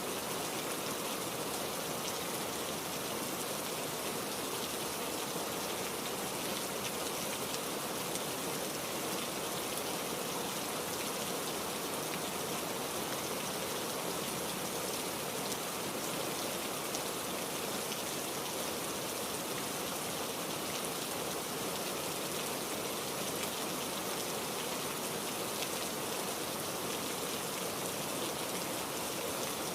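Heavy rain falling steadily: an even, unbroken hiss of many drops, with no thunder.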